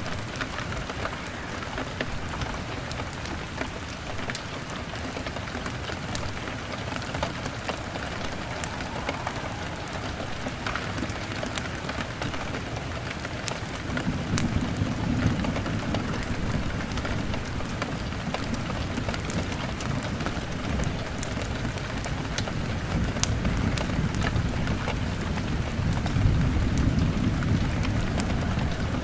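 Steady heavy rain beating on a window pane, with scattered sharp crackles. About halfway through, a low rumble of thunder sets in and swells again near the end.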